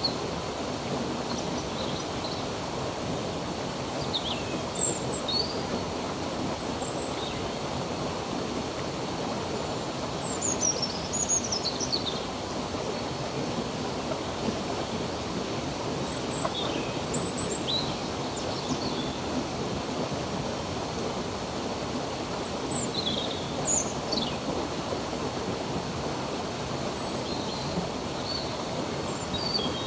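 Steady rush of flowing stream water, with small birds chirping and whistling in short high calls now and then throughout.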